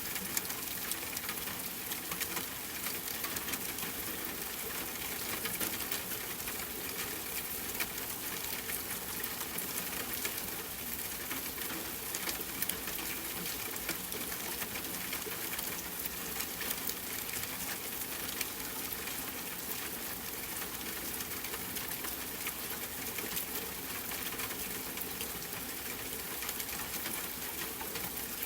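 Steady rain mixed with a crackling wood fire: a constant even hiss with frequent small, irregular pops and crackles.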